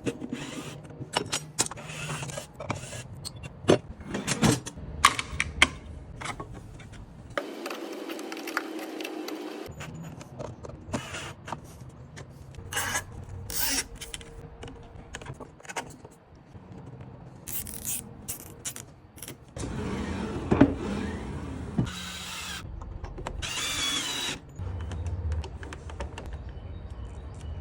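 Workshop handling sounds: scattered sharp clicks and knocks of parts being handled and fitted, in several short segments that change abruptly.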